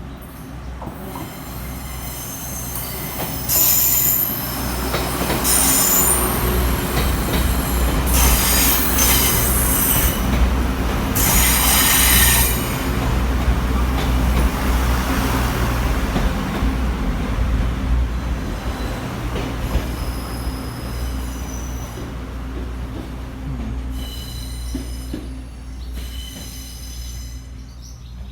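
Passenger train on the Pingxi Line, a diesel multiple unit, passing close by. A low rumble swells and then fades away, and the wheels squeal in high-pitched bursts, strongest in the first half and again near the end.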